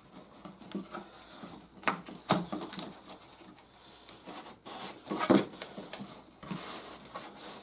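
Cardboard box and packing trays being handled, with scattered rustling and a few sharp knocks, the loudest about two seconds in and again a little past five seconds.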